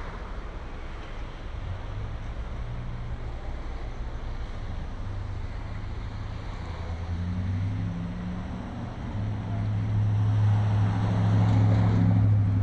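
A vehicle engine running steadily at low revs, a low hum that grows louder in the second half, over the noise of street traffic.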